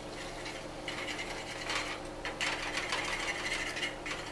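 A utensil scraping and chopping through eggs in a pan, in rough repeated scrapes that start about a second in and grow louder past the middle, over a steady low hum.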